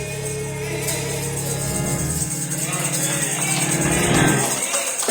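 Live gospel worship music: a band sustains chords under a shaking tambourine, with singers' voices coming in and out. Partway through, the bass drops out briefly and then returns.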